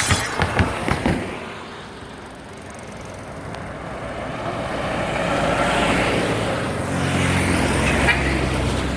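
Road traffic: a motor vehicle's tyre and engine noise building up as it approaches, with a steady low engine hum coming in near the end.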